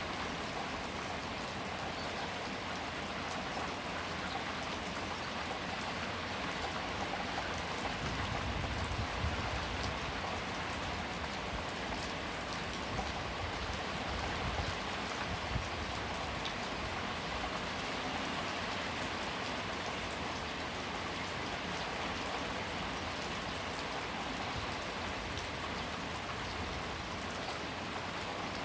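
Steady, heavy rainfall, a dense even hiss of drops hitting a surface. A low rumble swells briefly about eight seconds in and again around fifteen seconds.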